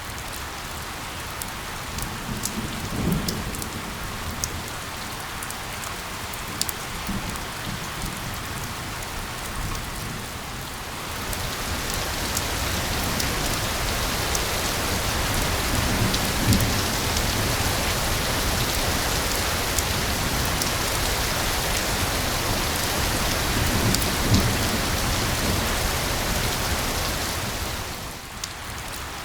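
Steady heavy rain pattering on a surface, with many fine drop ticks and a few low rumbles of thunder. It gets louder about eleven seconds in.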